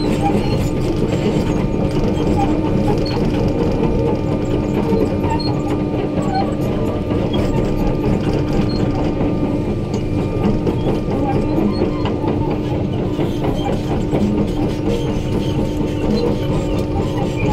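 Excavator running: a steady diesel engine hum with scattered clanks and clicks throughout.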